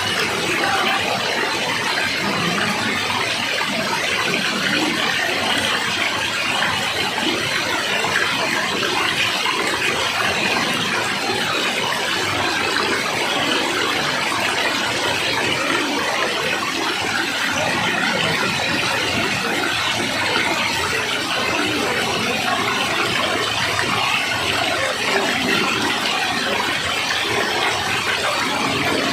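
Waterfall: water rushing steadily, an even, unbroken hiss of falling water with no change in level.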